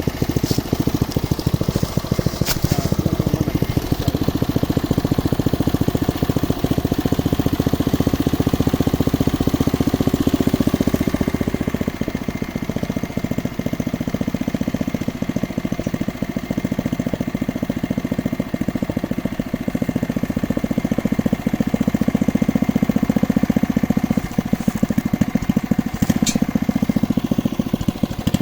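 Engine of a geological exploration drilling rig running steadily with a fast, even pulse, easing slightly about a third of the way in, with two sharp clicks, one early and one near the end.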